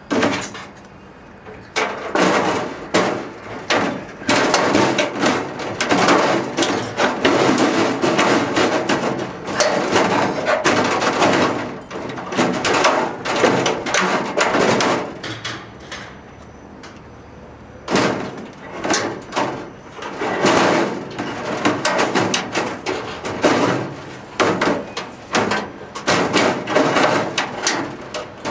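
Sheet metal being hammered and handled: dense, irregular metallic knocking and clattering, with a short lull about halfway through.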